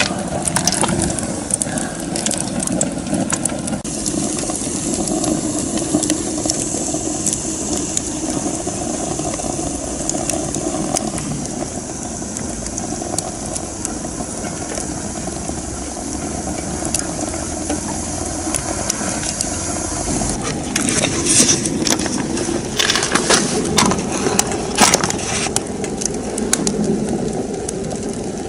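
Wood fire burning in a homemade rocket stove, a steady rushing draw with crackling and popping; the pops come thick and sharp in the second half. The fire is drawing strongly through the chimney, the stove's intended draft.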